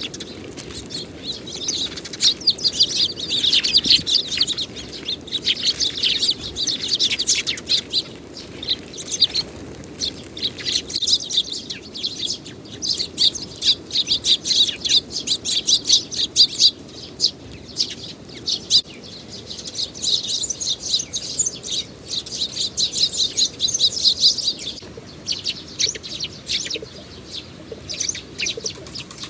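Eurasian tree sparrows chirping in a dense, rapid, overlapping stream of short high chirps that thins out near the end, over a steady hiss of heavy rain.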